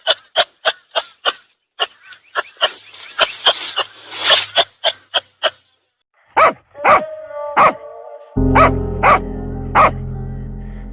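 A dog barking repeatedly: a quick run of short sharp barks, about three to four a second, then after a short pause slower, fuller barks about two a second. Background music comes in under the barks about two-thirds of the way through.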